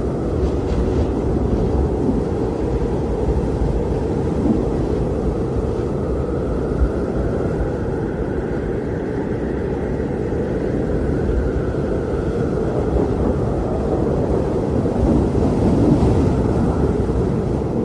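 Blizzard wind blowing steadily: a dense, low rushing noise with a faint high whistle that swells and fades.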